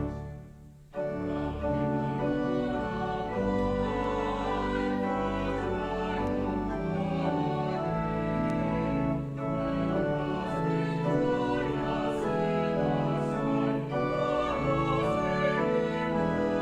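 Church service music: a choir singing with organ accompaniment, the music briefly dropping away about a second in before going on.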